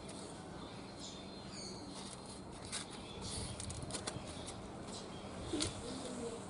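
Quiet outdoor background with scattered small clicks and crackles, and a brief bird chirp about one and a half seconds in.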